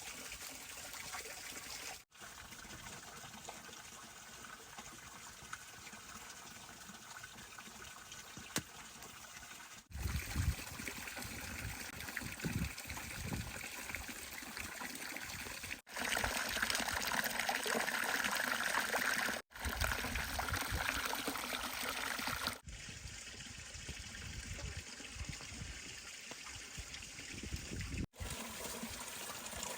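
Water trickling and running steadily, broken into several takes by abrupt cuts; it is loudest in the stretch from about 16 to 23 seconds in.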